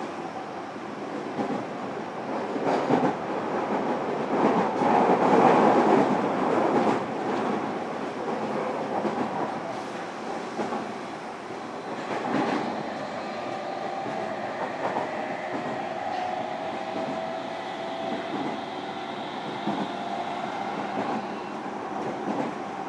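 Running sound inside a motor car of a JR Kyushu 305 series electric train at speed: steady wheel and rail rumble with clatter, swelling louder around four to seven seconds in. From about twelve seconds in, a faint steady whine joins it.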